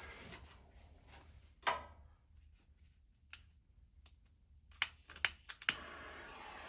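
A few sharp small clicks and taps of hand tools and wiring parts being handled, spaced out at first and then three in quick succession, after which a faint steady hiss starts near the end.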